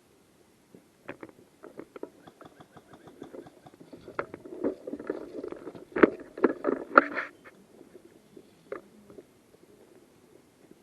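Irregular knocks, crackles and rustling close to the microphone, busiest and loudest a little past the middle, then dying away near the end.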